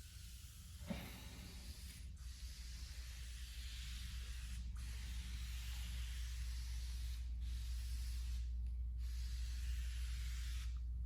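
Aerosol can spraying fabric dye, a steady hiss in long passes with brief breaks between them, and a click about a second in. The nozzle seemed a little clogged, giving less coverage than wanted.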